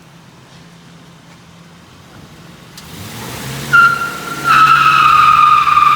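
Truck's front tyres squealing as they scrub across the floor in a slow, tight turn, over a low engine hum. The squeal is one high, steady tone that starts about two-thirds of the way in, breaks off briefly, then comes back louder.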